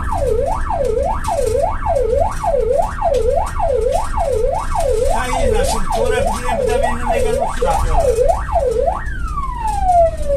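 Electronic siren sounding a fast yelp, its pitch sweeping down and back up about one and a half times a second, then near the end a single long wail falling slowly in pitch. A steady low rumble runs underneath.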